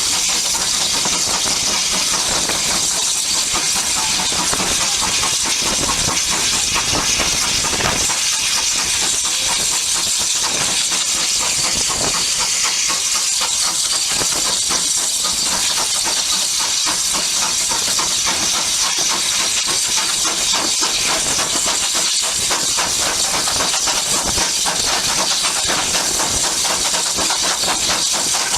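Steam tank locomotive letting off steam: a steady, loud hiss.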